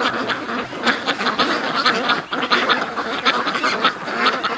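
A flock of domestic ducks quacking, many calls overlapping without a break.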